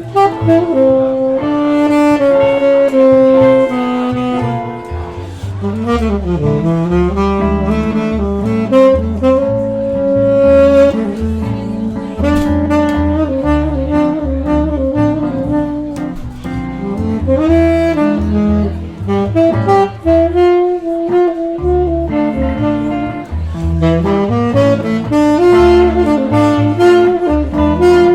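Saxophone playing a slow jazz solo with sliding, bending notes, over bass notes in a small-band accompaniment.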